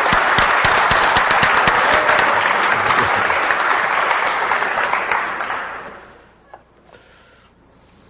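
Audience applauding, a dense patter of hand claps that dies away about five to six seconds in, leaving a couple of faint taps.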